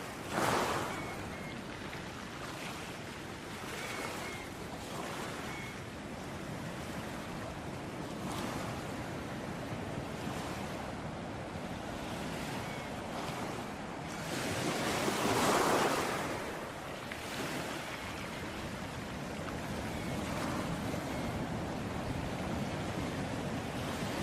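Ocean waves washing on a shore: a steady wash of surf, with a brief swell just after the start and a bigger wave breaking about fifteen seconds in, the loudest moment.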